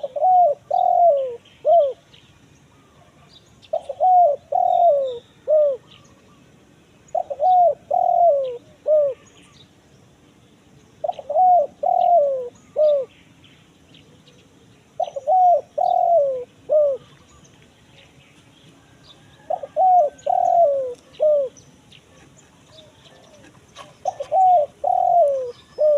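Spotted dove (tekukur) cooing a crisp 'kuk 1 mersik' type call: a short phrase of about four coos, each note falling in pitch, repeated seven times about every four seconds.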